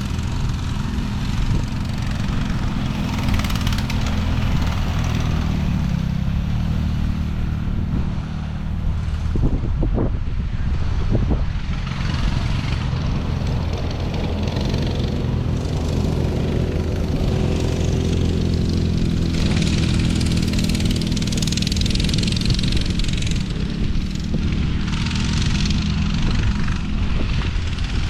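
A dirt bike or ATV engine running steadily while riding, its pitch shifting a little with the throttle. Two brief knocks come about ten seconds in.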